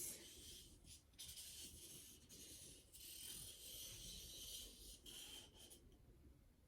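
Faint scratching of a drawing tool pulled along paper, tracing the outline of a child's body, in a few long strokes.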